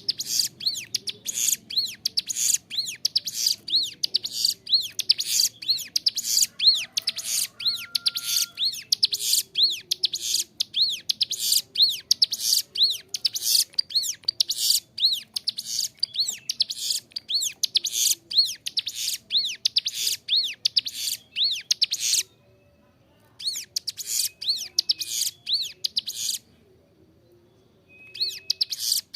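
Ciblek gunung, a prinia, singing a fast, unbroken run of sharp, high chirping notes, about two to three a second, with two short pauses near the end.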